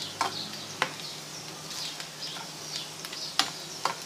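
Tadka of onion, garlic, ginger, curry leaves and cumin sizzling and crackling in hot oil in a pan, with a spoon knocking against the pan a few times as it is stirred.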